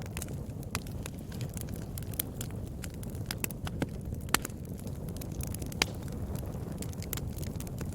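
Wood fire burning in a fireplace: a steady low rumble of the flames with irregular sharp crackles and pops, a few louder pops standing out.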